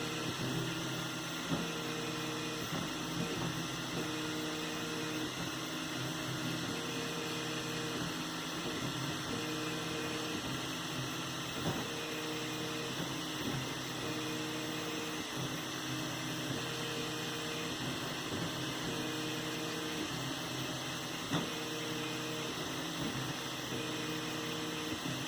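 3D printer printing: its stepper motors sing in short tones that keep starting and stopping as the print head moves. The tones change pitch from move to move, over a steady fan hum with a few light clicks.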